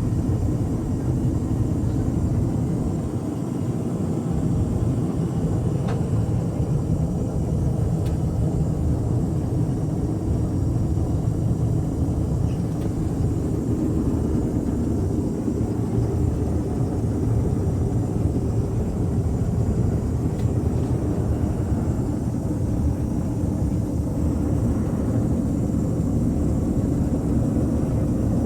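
Steady cabin noise of an Airbus A350-900 in cruise: a constant low rumble of engines and airflow, with a couple of faint clicks.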